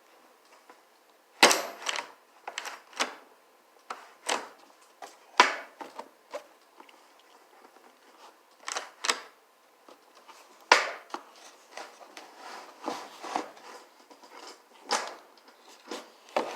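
Irregular metallic clicks and clanks of a garage door opener's drive chain and rail parts being handled and fitted together, a few knocks a second, with the sharpest about one and a half seconds in and again near the middle.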